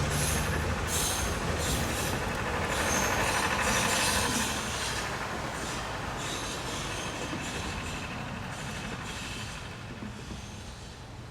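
Sugar cane train's wagons rolling past on narrow-gauge track, with wheel squeal and irregular clatter over the rail joints. It is loudest for the first four seconds or so, then fades steadily as the train moves away.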